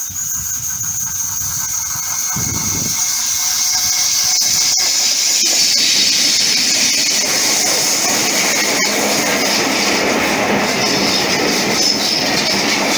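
Locomotive-hauled passenger train passing close by on curved track, its wheel flanges squealing high-pitched, with sharp clicks from the wheels over the rails. The running noise and the squeal grow louder a few seconds in as the train arrives alongside.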